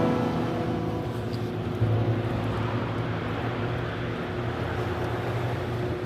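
A steady engine drone, a low hum under an even rushing noise.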